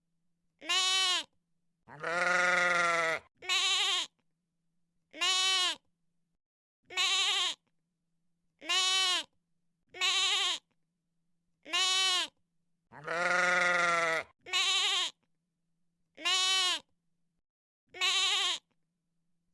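Sheep bleating: about a dozen separate bleats with short silences between them, mostly brief and two held longer.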